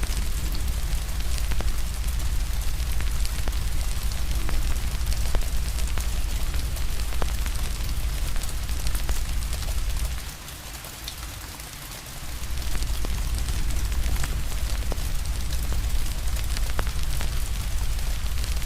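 Steady rain mixed with a crackling wood fire: a constant hiss with a deep low rumble under it and many small sharp pops and crackles. A little over halfway through, the low rumble drops away for about two seconds, then comes back.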